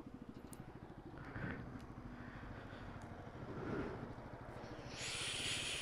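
Motorcycle engine running with an even, fast pulsing beat. A burst of hiss comes near the end.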